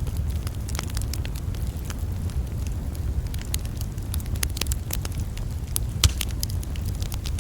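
Campfire crackling: a steady stream of irregular sharp pops and snaps over a low steady rumble, with one louder pop about six seconds in.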